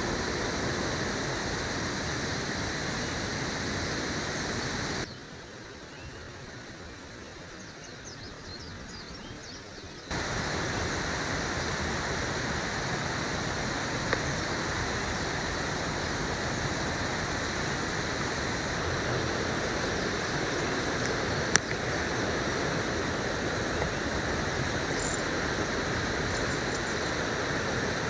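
Steady rushing of river water. About five seconds in it drops to a quieter level for around five seconds, then returns, with a single sharp tick near the end.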